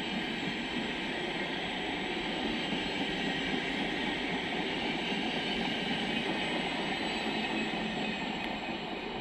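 Trenord double-deck passenger train rolling past, a steady noise of wheels running on the rails with a faint high steady tone. It starts to fade near the end as the rear cab car goes by.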